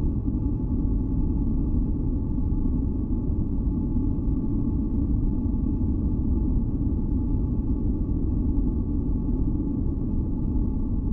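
Steady, deep rumbling masking noise with a few faint held tones above it. It is a continuous, unchanging relaxation noise track.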